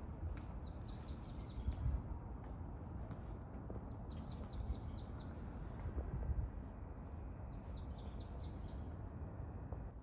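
A small songbird sings a rapid phrase of five or six high, downward-slurred notes three times, a few seconds apart, over a low background rumble.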